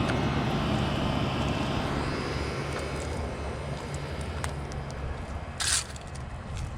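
Bryant central air-conditioner condensing unit running in cooling mode: a steady low hum of compressor and fan, slowly fading, with a short scuffing noise about two-thirds through.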